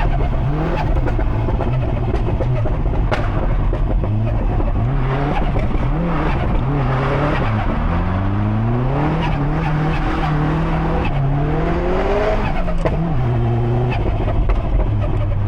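Subaru Impreza STI's built 2.5-litre turbocharged EJ257 flat-four, with a big turbo and antilag, revving hard and shifting: the engine pitch climbs and drops again and again, settling to a steadier note near the end. A few sharp cracks cut in between, one about three seconds in.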